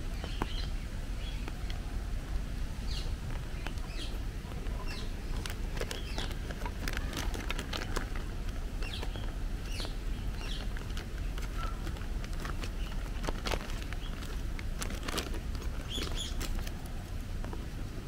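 Birds chirping and calling, many short chirps scattered throughout, with sharp clicks here and there, over a steady low rumble.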